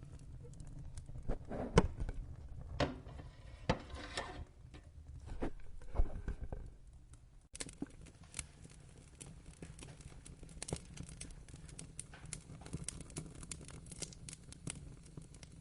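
Wood fire crackling in a fireplace, with several louder pops in the first half. After about seven and a half seconds it turns to a denser, steadier run of small crackles.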